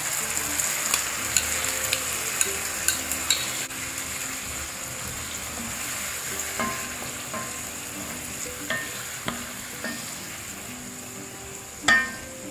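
Onions, ginger-garlic paste and ground spices sizzling in a frying pan while a spatula stirs and scrapes through them, with scattered clicks against the pan. The sizzle is strongest in the first few seconds and then eases. Near the end there is a louder clink.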